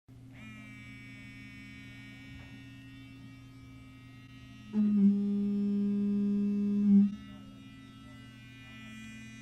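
Steady electrical hum with a faint high whine, the noise of a computer monitor left on during recording. About five seconds in, a loud low buzz comes in and holds steady for about two seconds, then stops.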